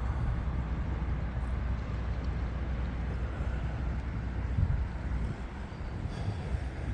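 Steady rush and rumble of high water pouring over a river dam spillway.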